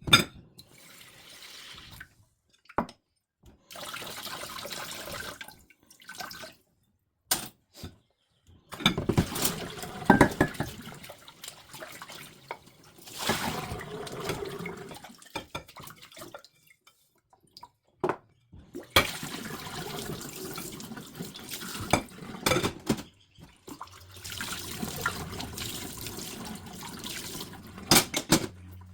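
Water running from a tap into a sink in several short stretches, each starting and stopping abruptly, with scattered clinks and knocks between them.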